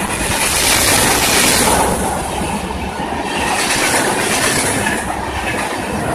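Express train's coaches passing at speed, wheels clattering on the rails with a rushing hiss that swells and eases twice.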